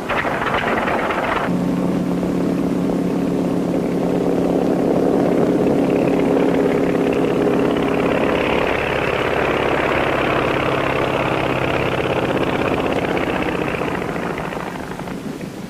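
A light airplane's piston engine runs steadily, a constant hum under a rushing noise. The hum sets in about a second and a half in and eases off near the end.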